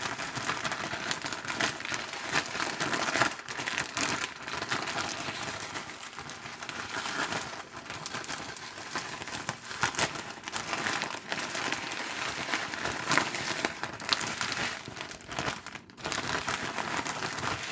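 A sealed plastic bag holding Shake 'n Bake breadcrumbs and two bone-in chicken breasts is being shaken to coat the chicken. It crinkles and rustles continuously, with a few brief pauses.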